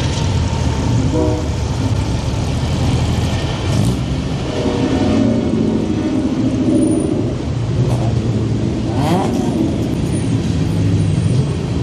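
Car engines running at idle with a steady low rumble, and one engine revving up briefly about nine seconds in.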